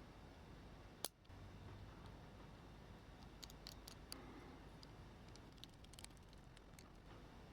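Faint clicks of small parts being handled in a quiet room: one sharper click about a second in, then a scattering of light ticks.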